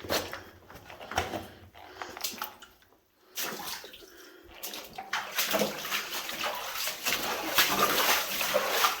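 Water splashing and sloshing in a flooded mine tunnel, building up from about halfway through, after a few scattered knocks.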